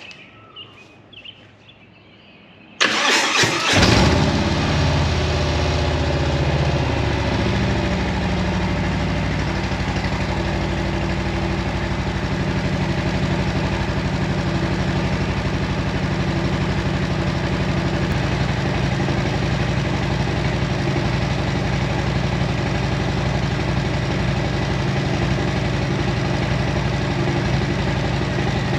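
Harley-Davidson V-twin motorcycle engine started about three seconds in, catching at once and then idling steadily, its idle easing a little lower over the next several seconds.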